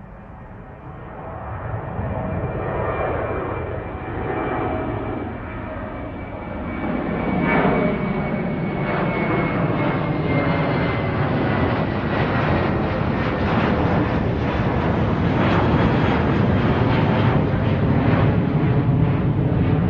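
Airliner engines heard from inside the cabin, a steady rushing drone with a faint whine that grows louder over the first several seconds and then holds steady.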